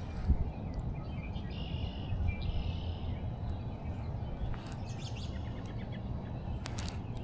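Outdoor background noise with a steady low rumble, and a bird chirping briefly about two seconds in.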